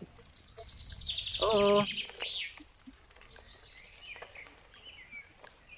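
A songbird singing a fast trill of high notes that steps downward and ends in a rising-and-falling flourish, with a shorter phrase of high notes near the end. About a second and a half in, a short, loud low-pitched tone sounds over a low rumble.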